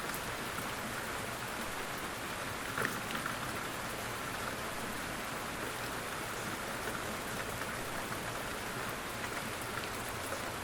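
Steady, gentle rain falling, with scattered individual drops ticking on a surface.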